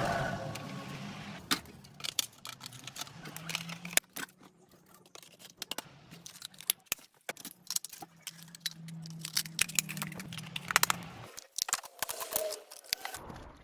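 Irregular metallic clicks and clinks of small tools and parts being handled on a workbench, over a low steady hum that stops about eleven seconds in.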